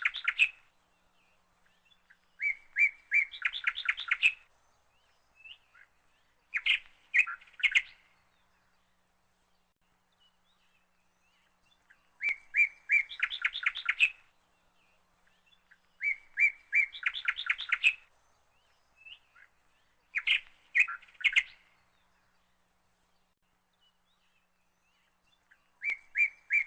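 A bird singing in short phrases of quick, rapid chirps, a phrase every few seconds with a longer pause in the middle and silence between.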